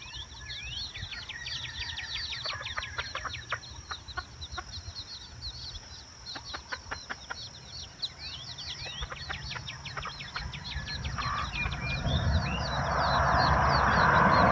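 Baby chicks peeping: many short, high peeps in quick succession. A rushing noise builds over the last couple of seconds.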